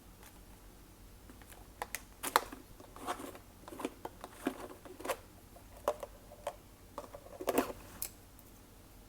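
Glossy slime being worked by hand, with irregular sticky clicks and crackles. The clicks come from about two seconds in and stop shortly before the end.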